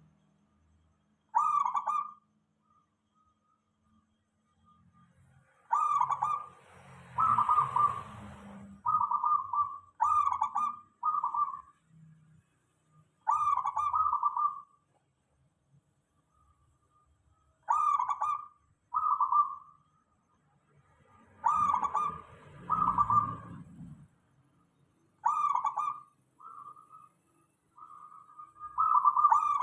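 Zebra dove (perkutut) cooing: about seven phrases of short, rapid coo notes, each phrase a second or two long, separated by gaps of one to three seconds.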